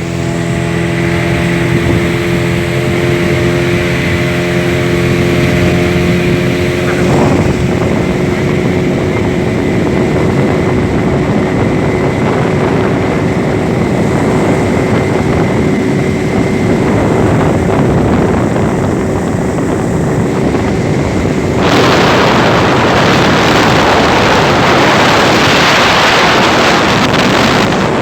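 Boat engine running steadily with a constant hum. About three-quarters of the way through, loud rushing wind on the microphone suddenly comes in over it.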